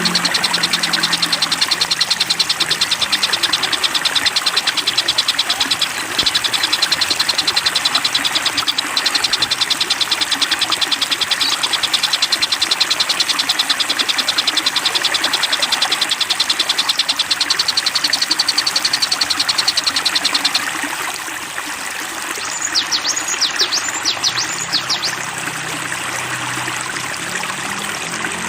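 Small songbird singing a rapid, even trill that holds for about twenty seconds over steadily running water. After the trill stops, a few short, sharp whistled notes sweep through the high range.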